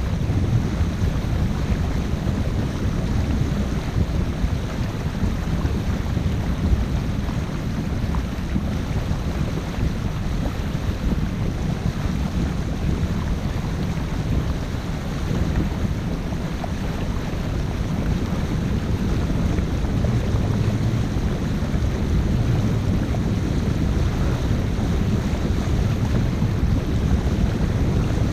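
A 50-foot motor-sailer under way: a steady low rumble with water noise and wind buffeting the microphone.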